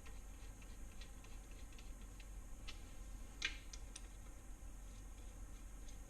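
Faint, irregular clicking of a hand ratchet snugging down the 10 mm side bolts on an LS engine block's main caps, with one louder metallic click a little past three seconds in.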